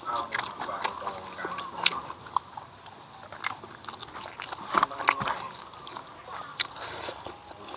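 Close-up eating sounds: a man chewing a mouthful of rice and smoked catfish, with irregular wet lip-smacks and mouth clicks.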